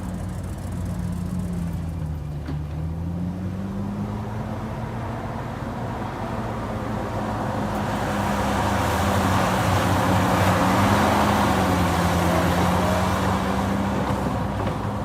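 Diesel engine of a heavy earthmoving machine running under load, its note dipping and recovering twice. A broad rush of mechanical noise swells through the second half and eases near the end.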